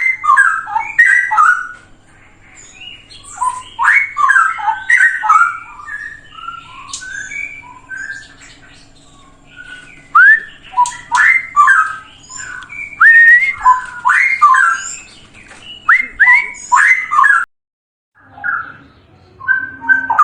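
Straw-headed bulbul (cucak rowo) singing: loud, liquid, bubbling whistled phrases delivered in bursts of a second or two with short pauses between, the song of a bird in full voice. It cuts out abruptly for a moment near the end, then starts again.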